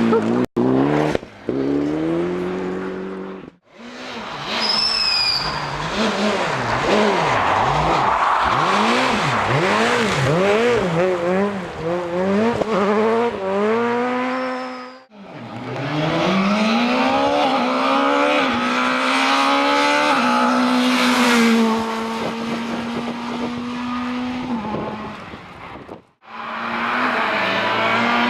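Rally cars' engines at full throttle in a run of short clips, pitch climbing and dropping with each gear change and lift-off. Abrupt cuts break between passes about every ten seconds.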